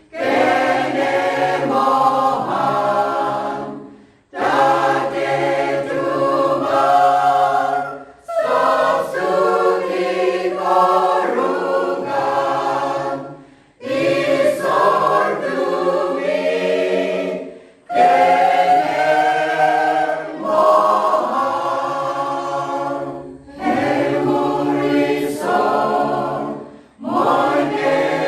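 Choir singing a hymn, in phrases of a few seconds each with short breaths between them.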